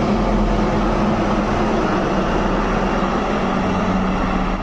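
Military aircraft flying over, a loud steady engine roar with a low hum that falls slightly in pitch near the end.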